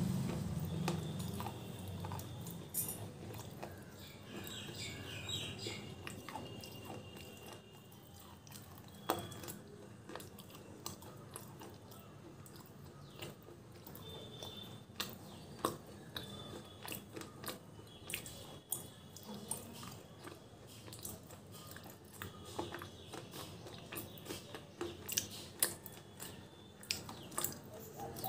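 Chewing a mouthful of hard baked clay: faint, gritty crunches and clicks between the teeth, more frequent and sharper in the last few seconds.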